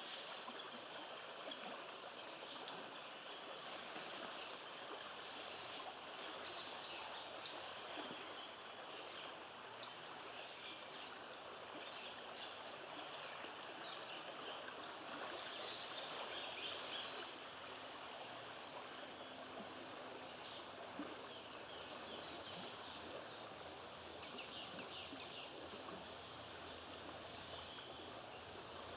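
Jungle ambience: a steady high insect drone over a soft hiss, with many short high chirps throughout. Two sharp clicks come about 7 and 10 seconds in, and louder chirps begin near the end.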